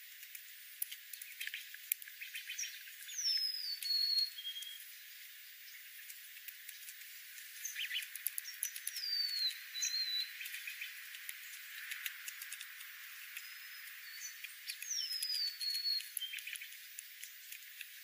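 A songbird's whistled call: a clear note that slides downward and ends on a short level tone, given three times about six seconds apart. Scattered sharp clicks run underneath.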